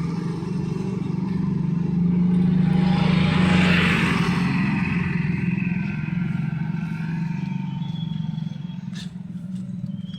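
Street traffic with engines running, and one vehicle passing close, loudest about three to four seconds in before fading away.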